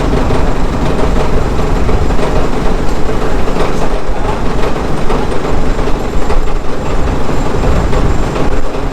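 A loud engine or motor running steadily, with a dense rattling texture.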